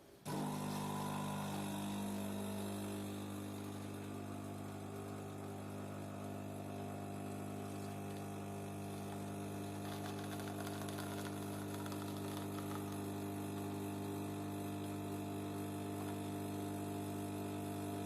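DeLonghi automatic coffee machine's pump running with a steady hum that starts abruptly, dispensing a drink.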